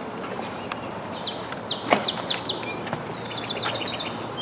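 Wild birds singing: quick series of high repeated chirps and short trills. A sharp click or knock about two seconds in.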